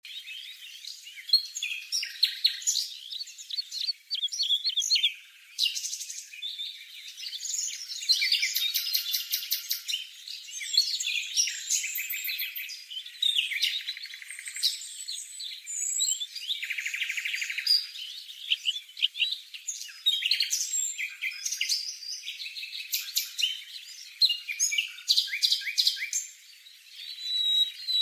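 Whitehead's broadbill calling: a dense, unbroken run of high chirps, squeaky notes and rapid trills, many overlapping, with no deep sounds beneath.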